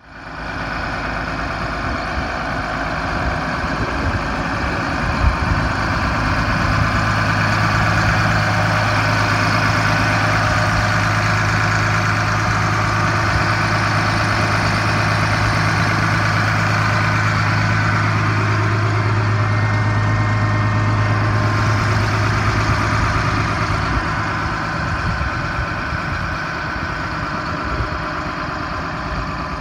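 Case IH MX270 tractor's six-cylinder diesel engine running at a steady idle, with a strong low hum, louder through the middle and easing off near the end.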